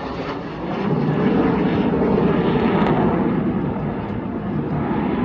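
Jet aircraft flying past overhead: a loud, rushing roar that swells about a second in and eases slightly toward the end.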